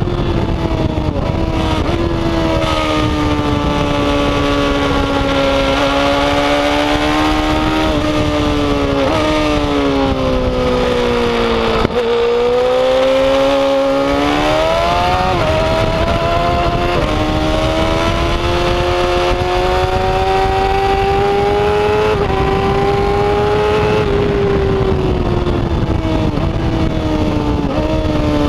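Yamaha R6's inline-four engine under load at track speed, with heavy wind rush. The engine note sinks slowly, is lowest about twelve seconds in, then climbs back as the throttle opens, with a few short breaks in the note.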